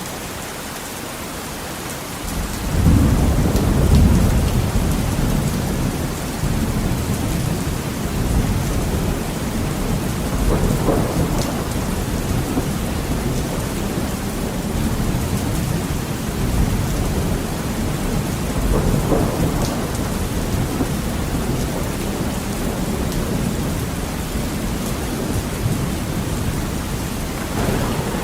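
Heavy rain on a window, a steady hiss, with thunder rumbling in about two and a half seconds in and rolling on, swelling again several times.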